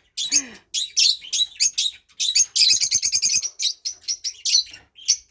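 Pet lovebirds chirping in a quick run of short, high chirps, packed into a dense flurry about halfway through.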